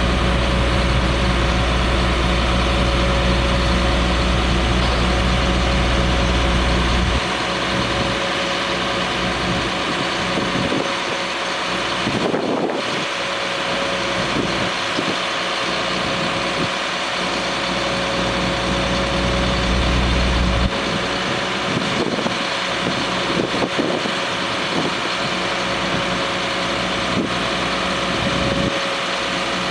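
Truck engine idling steadily, with a steady hum above it; a deep low rumble cuts out about seven seconds in, comes back for several seconds around the middle, and drops away again.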